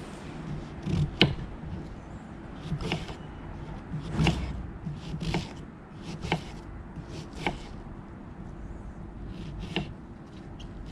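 Knife chopping onions and mushrooms: sharp, separate cuts at an irregular pace of roughly one a second.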